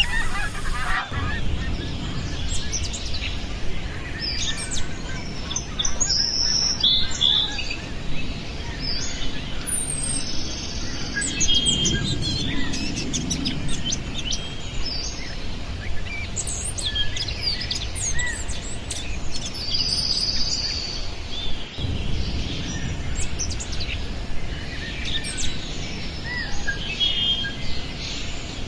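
Many small songbirds chirping and calling: short high chirps scattered throughout, over a steady low background rumble.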